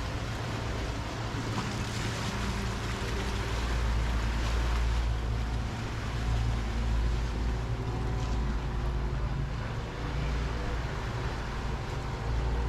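A motorboat engine running with a steady hum that drifts slightly in pitch, over the wash of small waves.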